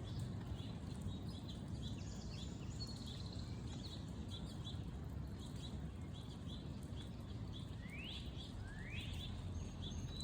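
Birds chirping, with many short high chirps and two upward-sweeping calls about eight and nine seconds in, over a steady low rumble.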